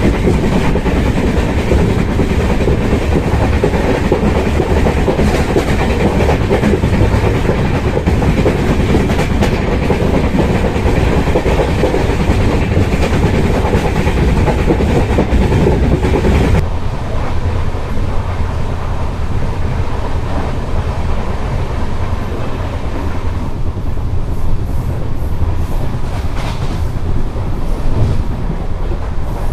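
Passenger train running at speed, heard from on board: steady rumble and wind with wheels clattering over the rail joints. About two-thirds of the way through, the sound suddenly turns duller and a little quieter.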